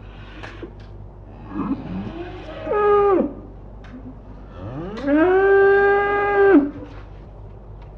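A calf mooing twice: a short call near the middle that falls away at the end, then a longer call that rises, holds steady and drops off.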